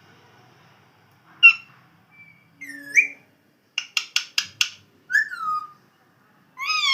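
Pet parrot calling and whistling in short separate bursts: a brief chirp, a rising whistle, a quick run of about six sharp clicking chirps, then a falling whistle, and a longer call begins near the end.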